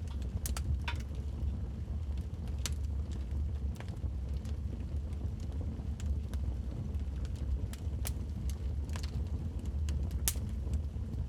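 Wood fire burning in a fireplace: a steady low rumble of flames with irregular sharp crackles and pops, the loudest pop about a second before the end.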